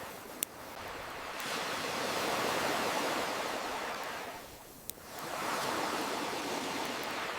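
Ocean waves washing in, ebbing and swelling again, with two sharp pops from a wood campfire: one about half a second in and one near the middle.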